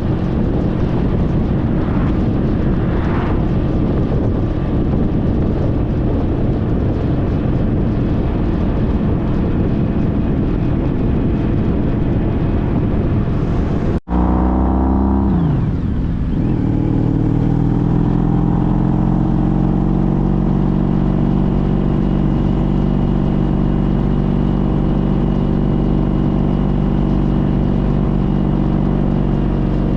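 2014 Honda CTX1300's V4 engine running under wind noise while riding at speed. After a sudden break about halfway through, the engine's pitch falls away and then holds a steady, even hum with much less wind.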